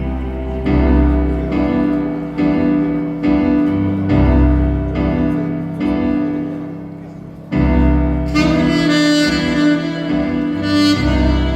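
Yamaha 82Z saxophone with a vintage mouthpiece playing a slow ballad melody in sustained notes over an accompaniment-machine backing track. The saxophone comes in about a second in.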